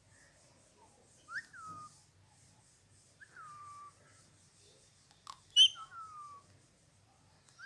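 Four soft, clear whistles, each gliding down in pitch over about half a second, with one short, sharp bird chirp a little after five seconds in, the loudest sound here, from a pet Indian ringneck parrot being tickled to sleep.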